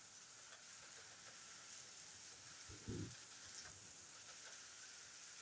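Faint, steady hiss of rain falling during a thunderstorm. A brief low thump comes about three seconds in.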